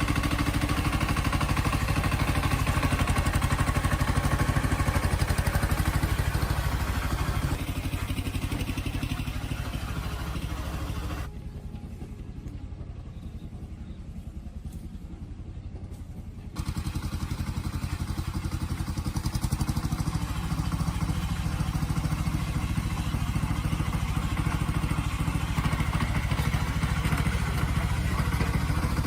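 A vehicle engine running steadily with an even, rapid firing beat. It drops in level about 11 seconds in and comes back up about 16 seconds in.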